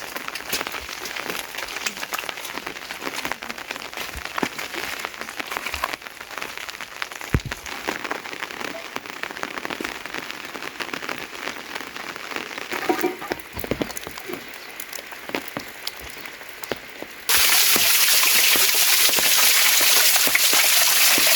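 Rain falling and pattering on surfaces, a dense crackle of many small drop hits. About seventeen seconds in it cuts suddenly to a much louder, even rush of heavy rain or running water.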